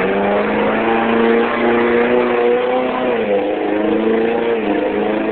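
Toyota mud truck's engine revving hard and held at high revs, its pitch dipping briefly about three seconds in and again near the end, then climbing back.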